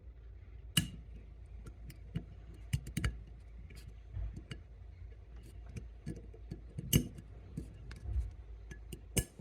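Sharp metallic clicks and small ticks as a steel circlip is worked into its groove in a Triumph gearbox case to retain the inner cover bearing, the loudest clicks at about one, three, seven and nine seconds, over a low steady hum.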